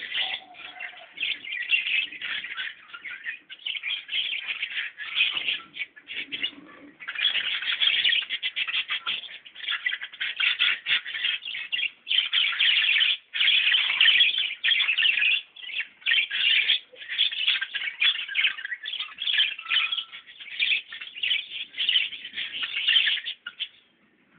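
Many small birds chirping at once: a dense, continuous chatter of rapid, overlapping chirps with a few short lulls.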